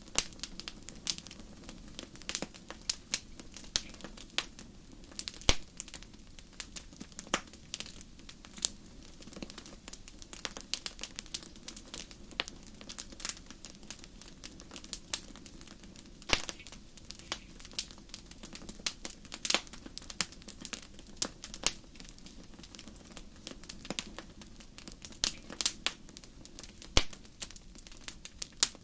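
Fireplace fire crackling: irregular sharp pops and snaps, a few much louder than the rest, over a steady low rush of flame.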